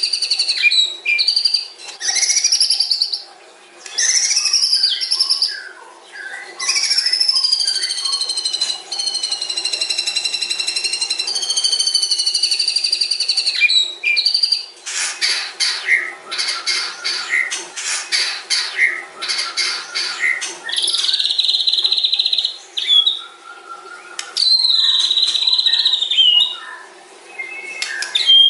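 White-rumped shama (murai batu) singing a long, varied song: clear whistled phrases with rising and falling glides, then about halfway through a fast stuttering run of notes, followed by long buzzy held notes.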